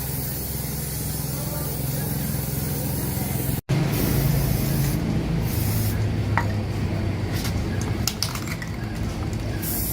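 Steady hiss of spraying air over a low machine hum, with a sudden break about a third of the way in and a few light clicks later on.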